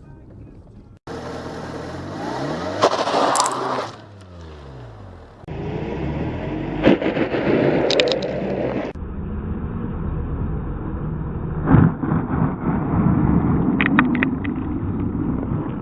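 Road traffic noise in several short cut clips, with a vehicle passing close a few seconds in and a few sharp clicks or knocks later on.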